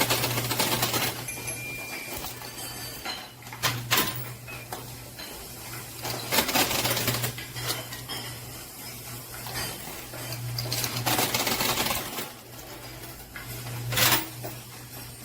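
Quarters fed into a coin pusher arcade machine, clinking and clattering against metal and other coins in several separate bursts, over a steady low hum.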